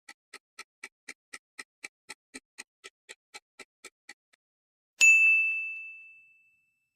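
Countdown-timer sound effect: soft clock-like ticks at about four a second stop around four seconds in, then a single bright bell ding rings out and fades over about a second and a half, marking time up for the answer.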